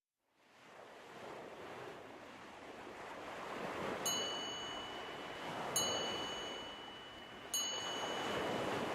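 A soft, airy rushing wash that swells and fades like wind or surf, with three bright chime strikes about every second and a half, starting about four seconds in, each ringing on briefly: an ambient soundtrack intro.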